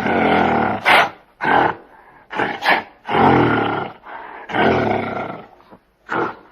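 An animal giving a series of harsh, rasping growling calls, about seven of them, some long and some short, with brief gaps between.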